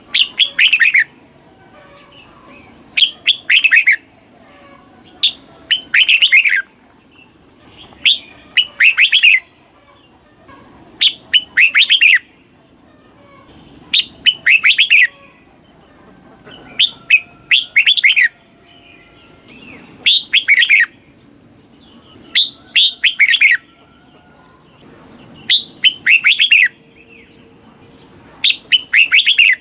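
Red-whiskered bulbul singing: bright, sweeping song phrases about a second long, repeated every two to three seconds.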